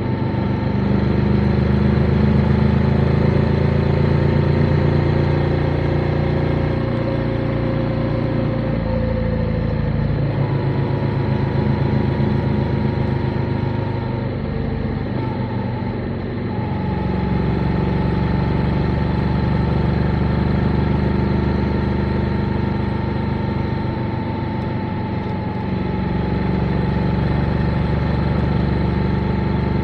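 Motorcycle engine running under way, its note shifting several times as the revs drop and pick up again, around eight, ten and sixteen seconds in.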